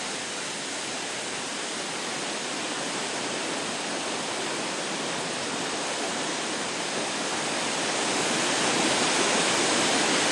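Waterfall's rushing water: the Manyueyuan Waterfall crashing down onto the river, an unbroken steady rush that grows a little louder near the end.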